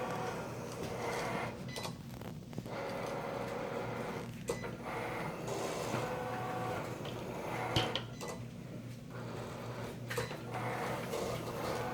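Mechanical grinding sound from a machine, running in stretches of a few seconds with short breaks and a few sharp clicks between them.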